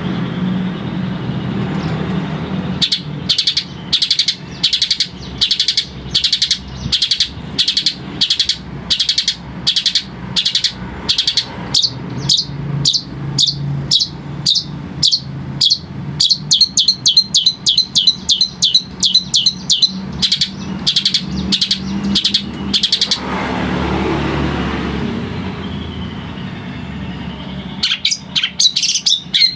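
A long-tailed shrike (cendet) singing a long run of short, sharp, repeated notes, about two a second, with a steady low hum underneath. The song breaks off for a few seconds and starts again near the end.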